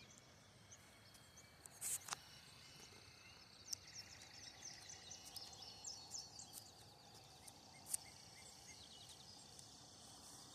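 Faint outdoor ambience: birds chirping over and over, with a faint steady insect drone and a few brief clicks.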